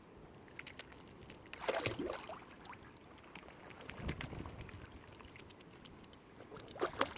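Lake water lapping and splashing, with short splashes about two seconds in and again near the end.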